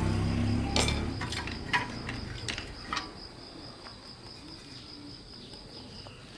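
Old diesel engine running, then stopping about a second in and dying away. A handful of sharp clicks and knocks follow, over a steady high-pitched insect-like trill.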